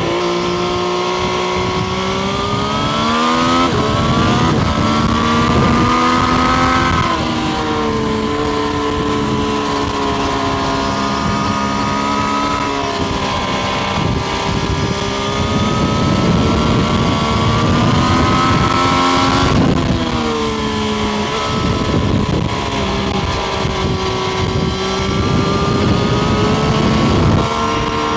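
Triumph Street Triple RS's 765 cc three-cylinder engine pulling under way, its note slowly climbing in pitch and then dropping suddenly several times as the gears change.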